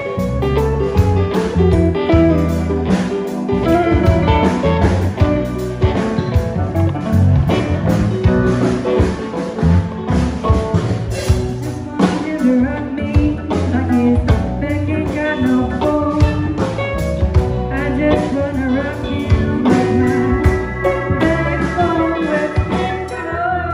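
Live blues band playing, with guitar over bass and drums keeping a steady beat.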